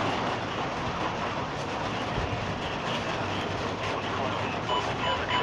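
Small hail, about marble-sized, falling with rain in a thunderstorm: a steady dense hiss with faint pattering ticks.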